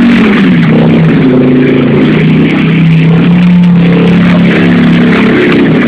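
Motorcycle engine held at high revs through a tyre burnout, the rear road tyre spinning on the spot. The sound is loud and continuous, and the engine note steps up and down a little.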